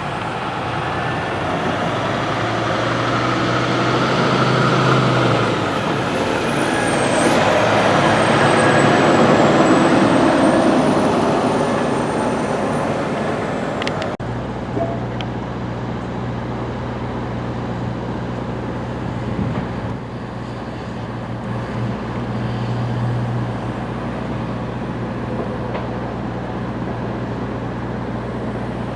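Road traffic: a heavy vehicle passes, swelling to its loudest about ten seconds in with a high whine over the rumble. From about halfway on there is a steady traffic rumble with a low engine hum.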